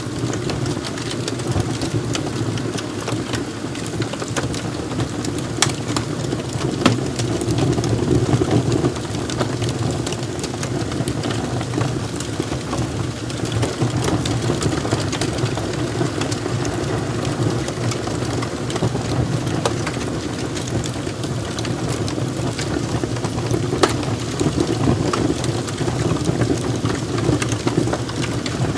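Log fire burning in a fireplace: a steady low rush of flames with scattered sharp crackles and pops from the burning wood.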